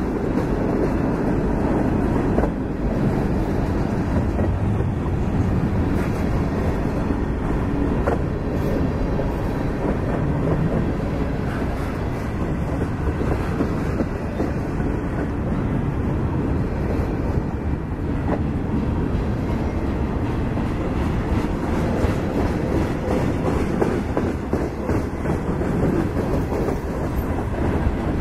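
Freight cars of a long train rolling past close by: a steady rumble of steel wheels on rail, with a few faint wheel clicks.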